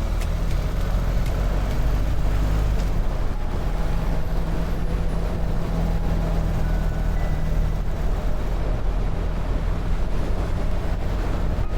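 BMW R1300 GS motorcycle's boxer-twin engine running steadily while riding, with wind and road noise.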